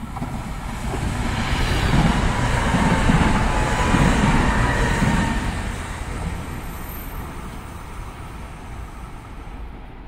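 A train passing by, its rumble building over about two seconds, staying loudest for a few seconds, then fading away.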